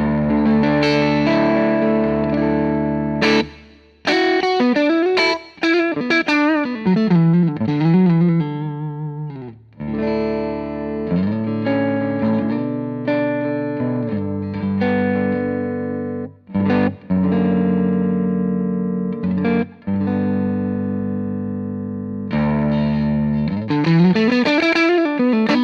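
Electric guitar (Kiesel Zeus headless) played through an EarthQuaker Devices White Light overdrive pedal at low gain, gain at 9 o'clock and comp switch in the minus position, into a Hughes & Kettner Tubemeister Deluxe 20 amp with a little reverb. It plays held, lightly driven chords with a few short breaks, and lead lines with string bends and vibrato.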